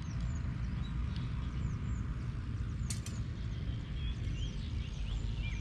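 Small birds chirping throughout, in many short quick calls, over a steady low rumble. A sharp click sounds once, about three seconds in.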